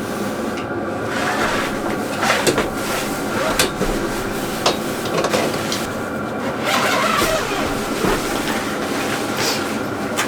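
Chinese diesel air heater running with a steady mechanical hum, with scattered clicks and knocks over it.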